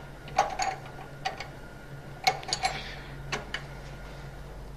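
Metal tools and solenoid valve parts clicking and clinking as the espresso machine's 3-way solenoid valve is closed back up, about seven sharp taps at uneven intervals, each with a brief metallic ring.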